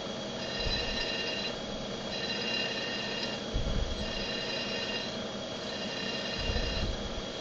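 Manual milling machine spindle running a drill bit into a wheel, with a high ringing tone from the cut that comes and goes about every one and a half seconds and a few low thumps.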